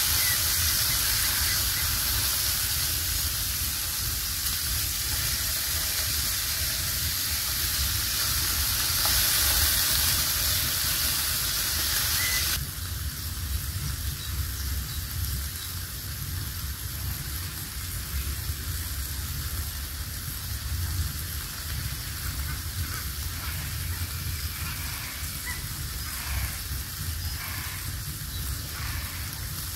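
Food sizzling as it fries in a pan over a wood fire. The steady hiss drops suddenly to a quieter level about twelve seconds in.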